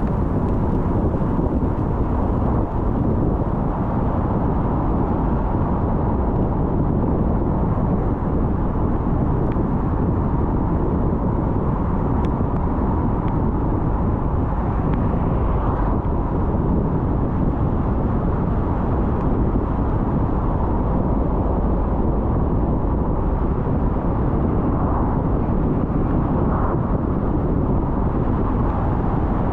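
A car driving: steady, unbroken road and engine rumble.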